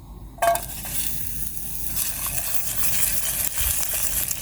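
Green peppers going into a hot, oiled pan on a gas camping stove: frying starts suddenly about half a second in with a loud hit and carries on as a steady sizzle with fine crackling.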